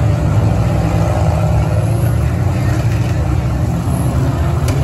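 Engines of several demolition derby cars running and revving together as they drive and push against each other, with a short sharp knock near the end.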